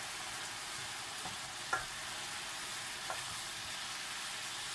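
Chicken sizzling as it fries in a pan with adobo seasoning, a steady hiss, with a couple of short knocks about two and three seconds in.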